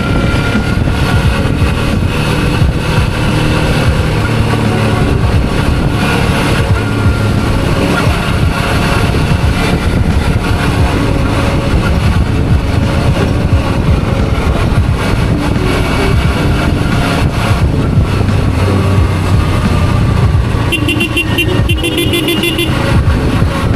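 Suzuki V-Strom 650's V-twin engine running under way, its pitch shifting with the throttle, over a steady rush of wind and road noise. Near the end a rapidly pulsing high tone sounds for about two seconds.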